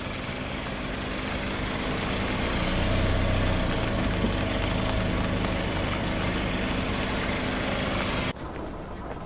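Car engine running steadily at low speed, with a low hum that swells slightly midway. Near the end it cuts abruptly to another recording of the engine running.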